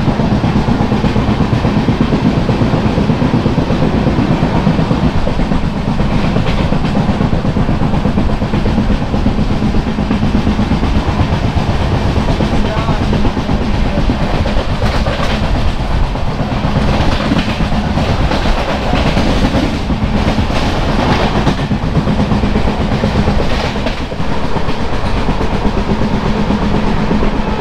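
Moving passenger train heard from on board: a steady loud rumble of the coach with wheels clattering rhythmically on the track, the clatter growing louder for a few seconds a little past the middle.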